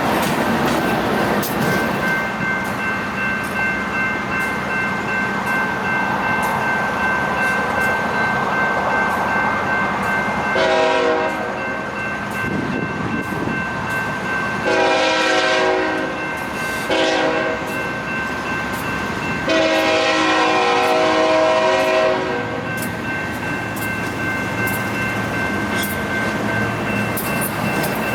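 BNSF diesel freight locomotives running, with a steady high whine over the engine and rail noise. The locomotive's air horn sounds four blasts, the last the longest.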